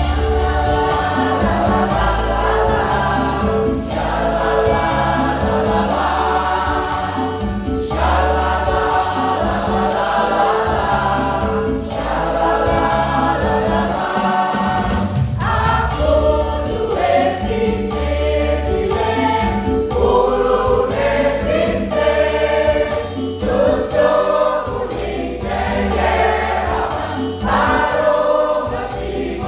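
A choir singing sustained phrases of a few seconds each, over a rhythmic accompaniment with a steady pulsing beat and bass.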